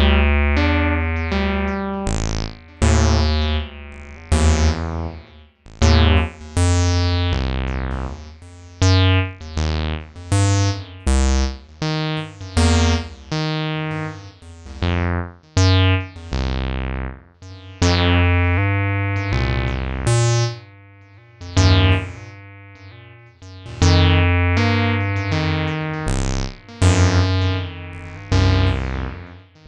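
Acid synth line from the Acidmachine: a sequence of short, choppy notes, each with a bright resonant filter sweep falling away, over deep bass notes.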